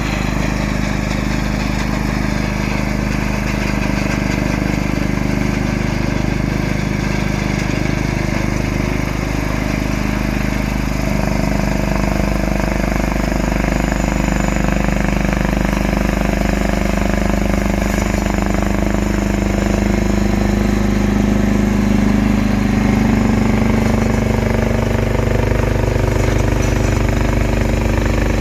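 John Deere tractor's engine running steadily under load, its pitch shifting a little partway through and again later.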